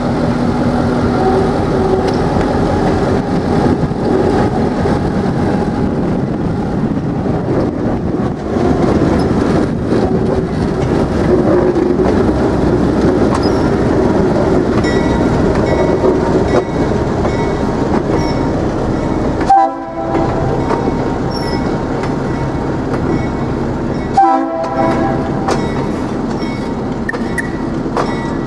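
EMD GP7 diesel locomotive running steadily along the track, its engine and wheels on the rails making a continuous loud noise. A horn gives two short blasts, about two-thirds of the way in and again some four seconds later.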